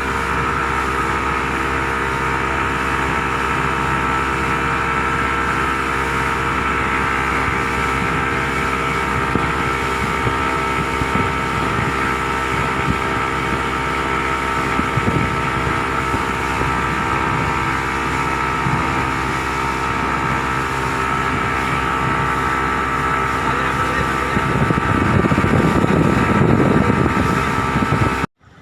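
Boat engine running at a steady drone with several steady tones. A rush of wind noise on the microphone grows louder near the end, then the sound cuts off suddenly.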